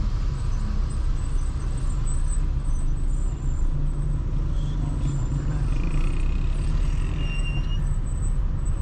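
Steady low rumble of a car driving in city traffic, engine and road noise heard from the moving car, with a faint brief high squeal about two-thirds of the way through.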